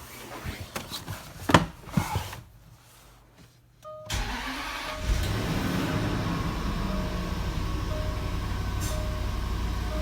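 A few knocks and one loud thump about a second and a half in, then a short quiet before a car engine is cold-started about four seconds in and settles into a steady idle. A short chime repeats over the running engine.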